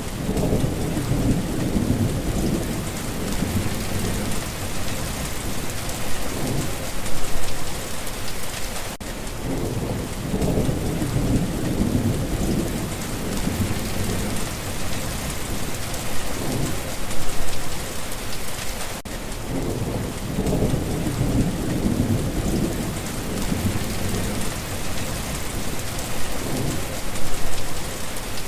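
Steady rain falling, with low rolling thunder rumbles that swell and fade in a cycle repeating about every ten seconds.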